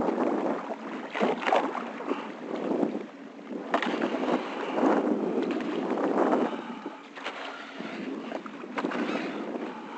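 Water splashing and sloshing around a kayak in uneven surges, swelling and fading about once a second.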